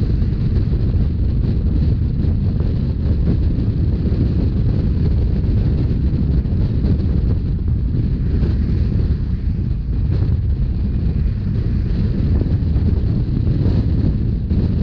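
Rhaetian Railway regional train running at speed: a steady low rumble of wheels on rails, with strong wind buffeting the microphone.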